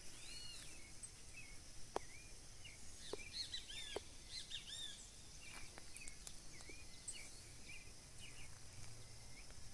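Birds chirping over a faint steady outdoor background, with many short rising-and-falling notes repeating throughout.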